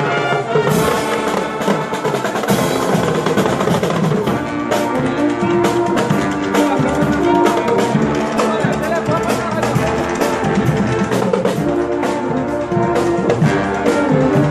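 A marching band playing a lively tune, with pitched instruments over drums and a bass drum keeping a steady beat.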